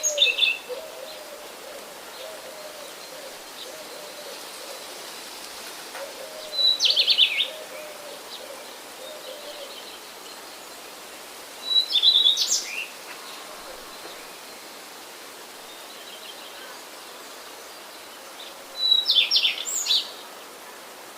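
A songbird singing short, fast high phrases four times, roughly every six seconds, over a steady faint background hiss. A low, repeated cooing runs under the song through the first half.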